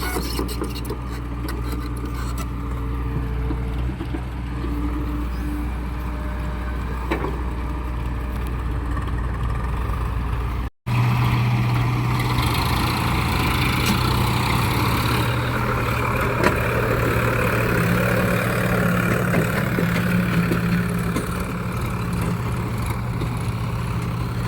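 Heavy diesel engines of an excavator and a tractor running steadily while mud is loaded into the tractor's trolley. The sound breaks off for a moment about eleven seconds in and picks up again with a higher, steady engine drone.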